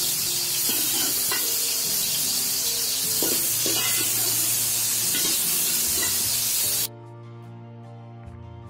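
Cauliflower florets sizzling as they fry in oil, turned with a spatula that scrapes and knocks against the pan a few times. The sizzling cuts off suddenly about seven seconds in, leaving soft background music, which also plays faintly underneath throughout.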